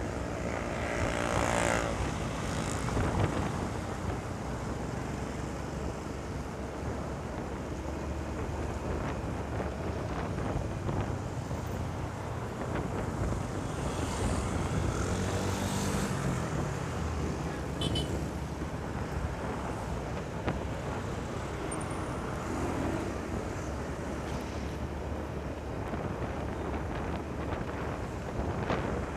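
Riding a motorcycle on a highway: wind buffets the microphone over steady engine and road noise. Other vehicles' engines rise and fall as they pass, about a second in and again around fifteen seconds in.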